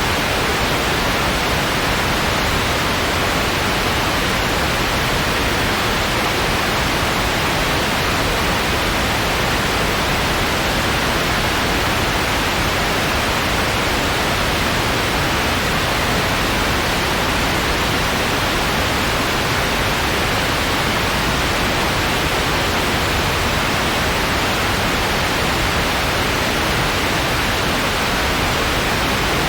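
Steady, unchanging noise hiss, the white/pink noise of a relaxation soundtrack, without any events or pitched sounds.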